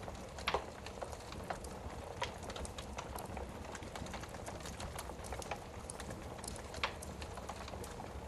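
Wood fire burning in a fireplace, crackling steadily with scattered small snaps and a couple of louder pops, one about half a second in and one near the end.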